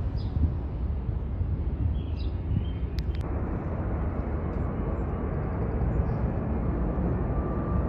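Jet airliner's engines on takeoff: a steady low rumble that grows fuller about three seconds in, with a single sharp click just before.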